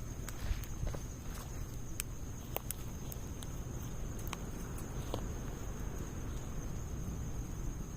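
Wood fire of logs and pine needles crackling in a Snow Peak fire stand: irregular sharp pops and snaps over a low steady rumble, with a thin high-pitched drone throughout.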